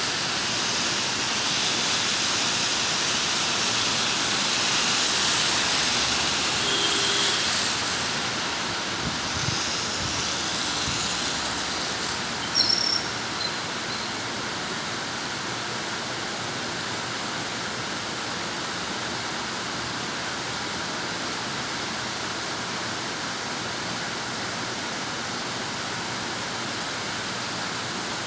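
Heavy rain falling steadily, heavier for the first several seconds and then easing to an even hiss. A brief cluster of sharp knocks sounds a little before halfway through.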